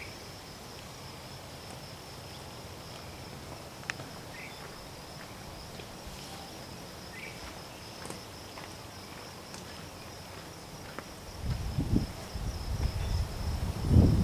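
A steady high-pitched insect trill, like crickets, runs throughout, with a few faint short chirps. An irregular low rumble comes in for the last few seconds.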